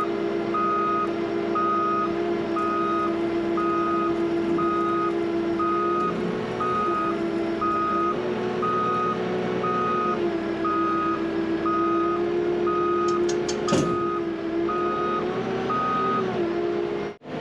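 A skid steer's diesel engine running under load while its backup alarm beeps about once a second as it reverses. The engine pitch rises and falls a few times, there is one sharp knock near the end, and the beeping stops shortly before the sound cuts off.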